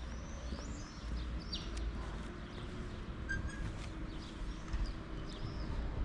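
Several small birds chirping and calling in short, quick notes, over a steady low rumble.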